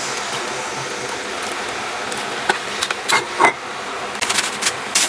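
Stir-frying in a wok: a steady sizzling hiss, with a metal spatula clinking and scraping against the pan from about halfway through, one clink ringing briefly.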